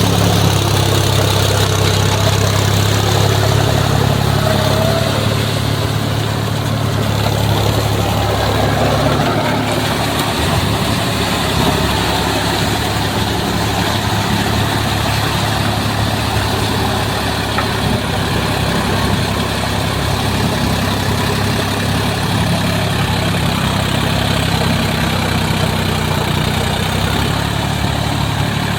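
Sonalika Tiger DI 50 tractor's diesel engine running continuously while ploughing, a steady hum that turns rougher about nine seconds in.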